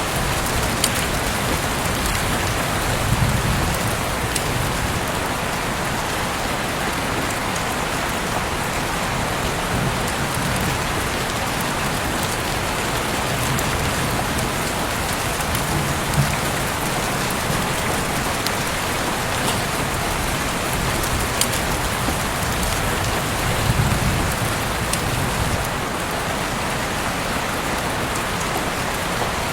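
Heavy rain falling steadily, with scattered sharp drip ticks. A brief low rumble comes about three seconds in and again near the end.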